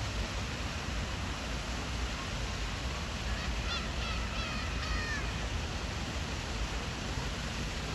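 A gull giving a quick series of short calls lasting about two seconds, near the middle, over a steady background rush.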